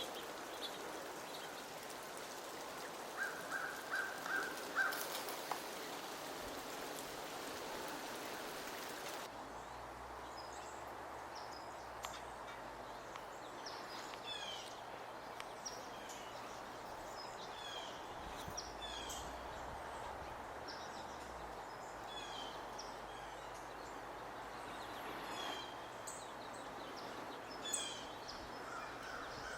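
Small birds calling: a quick run of about six notes a few seconds in, then many short, high, downward chirps repeated at irregular intervals over a steady outdoor hiss.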